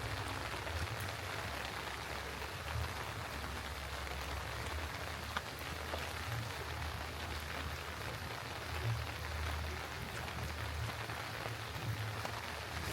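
Steady rain falling and spattering on surfaces, with scattered single drops ticking through it and a low rumble underneath.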